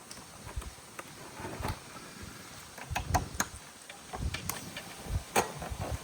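Irregular sharp clicks and light knocks, a handful of them, the loudest about three seconds in and again near the end, over a faint steady background.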